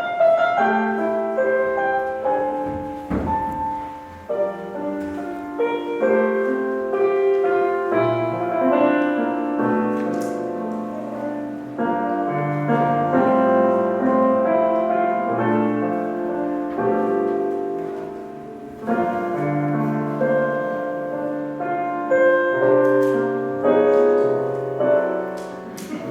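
Piano playing chords and a melody line, the introduction to a worship song that is sung right after.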